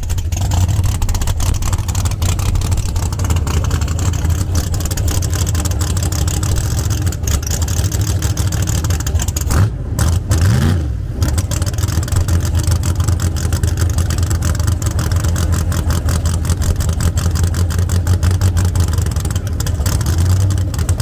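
Drag car engine idling loudly with a fast, even pulsing, and one quick rev about ten seconds in.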